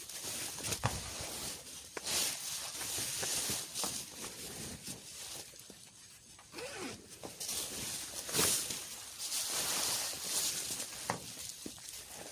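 Rustling and rasping handling sounds, like a zipper being worked in short pulls, with scattered small clicks and knocks; the strongest rasp comes about two-thirds of the way through.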